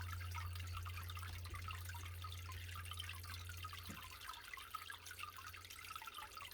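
Water falling in many small drops, dripping and pattering steadily, over a low steady hum that cuts off about four seconds in.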